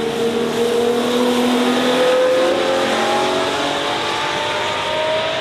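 Ferrari 812 Competizione A's naturally aspirated V12 accelerating, its engine note rising steadily in pitch.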